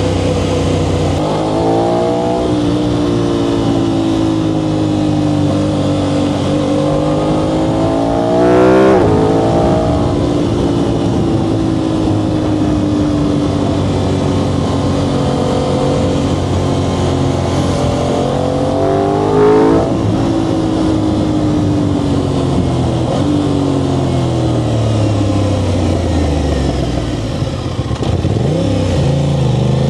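Aprilia RS660's 659 cc parallel-twin engine through an Arrow full exhaust with the dB killer fitted, accelerating through the gears: the pitch climbs and drops back at each upshift, with two louder rev peaks about nine and twenty seconds in. Near the end the revs fall away steadily as it slows.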